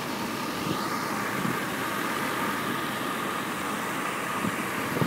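Mercedes 500SL's V8 engine idling steadily, with a faint constant whine over the hum.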